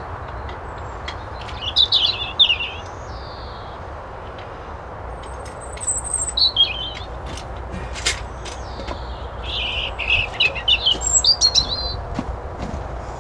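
A small songbird singing in three bouts of quick, twittering chirps, over a steady low rumble, with a few sharp clicks, the clearest about eight seconds in.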